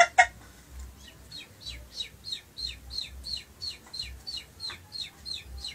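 A man imitating a baby chick with his voice: a steady run of short, high peeps, each falling in pitch, about three a second.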